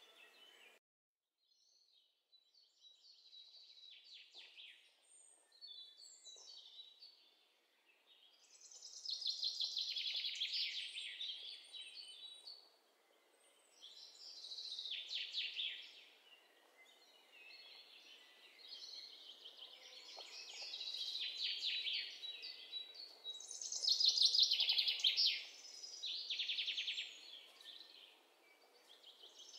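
Small birds chirping, mostly in bursts of fast high trills every few seconds, with a few thin whistled notes. The sound cuts out for about a second near the start.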